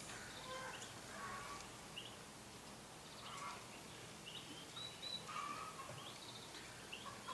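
Faint, scattered short bird chirps, some rising in pitch, over a quiet steady background.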